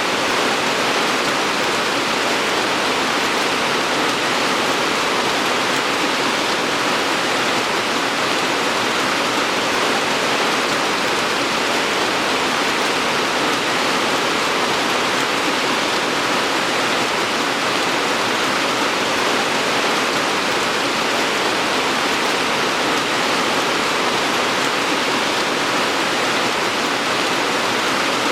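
Steady heavy rain, an even hiss of falling water without breaks or single drops standing out.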